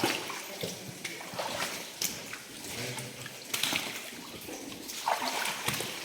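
Footsteps wading through water in a flooded mine tunnel, with irregular splashes and sloshing.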